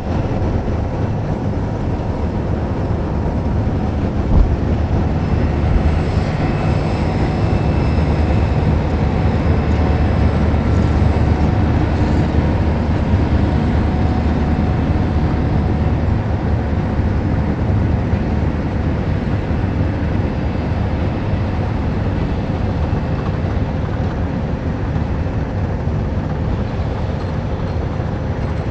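Diesel freight locomotives running with a steady low rumble and faint steady tones as a loaded ore train rolls past, with one dull knock about four seconds in.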